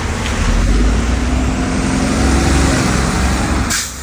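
Road traffic heard from a moving scooter: vehicles running close by with a heavy low rumble and a steady engine hum through the middle. A brief sharp hiss comes just before the end.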